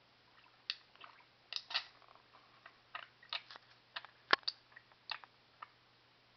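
Pet budgerigar making scattered short clicks and brief chirps between bouts of talking, with one sharper, louder click a little past four seconds in.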